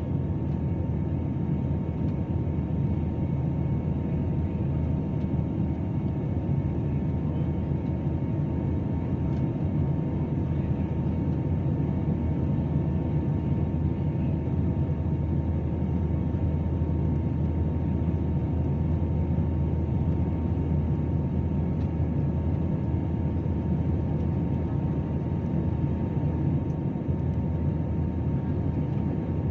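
Airplane engine noise: a steady low drone with a faint constant whine above it, holding the same level throughout.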